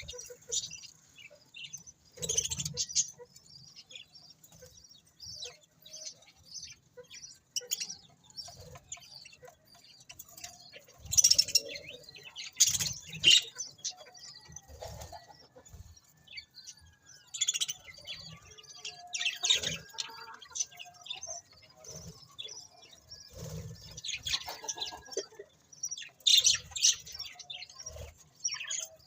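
Budgerigars chirping and chattering in irregular bursts of short, high calls, loudest a little over ten seconds in and again near the end.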